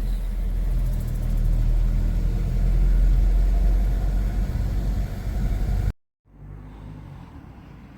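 Steady low rumble of a car driving along a road, which cuts off abruptly about six seconds in. After a brief silence a much quieter low rumble follows.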